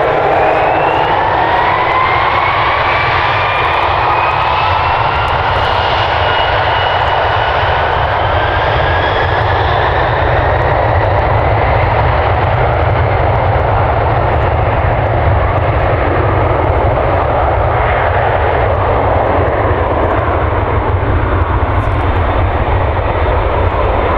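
Jet airliner engines running close by: a steady, loud rumble with a whine that rises in pitch over the first ten seconds or so, then blends into the roar.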